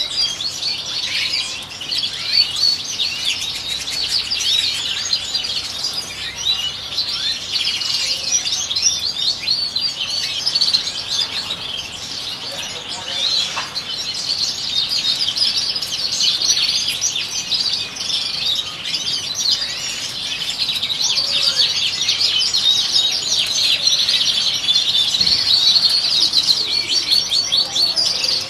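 Several European goldfinches singing and twittering without pause, a dense run of quick, overlapping chirps and trills.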